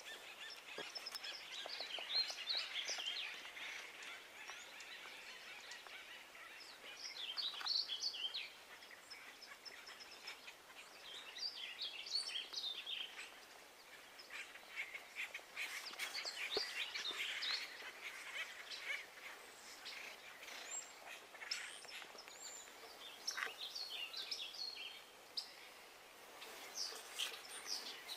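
Small birds chirping and twittering in repeated clusters of quick calls, over a faint steady outdoor hiss.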